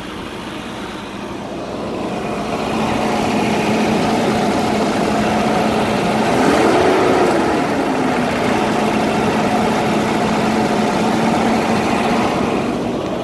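Volvo 240 engine running steadily at idle, just brought back to life after 15 years sitting, on a replacement white-label ECU; one brief rev rises and falls back about seven seconds in. It sounds like she's purring.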